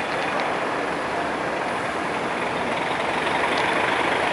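Heavy transport truck running past: a steady wash of engine and road noise that swells slightly near the end.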